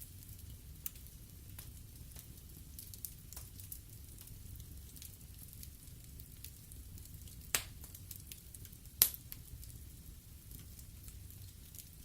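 Wood fire crackling in a fireplace: a steady low rumble with scattered faint crackles, and two sharp loud pops, one about halfway through and a louder one a second and a half later.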